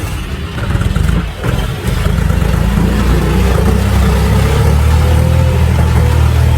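Tractor engine running steadily with a heavy low drone, dipping briefly about a second and a half in.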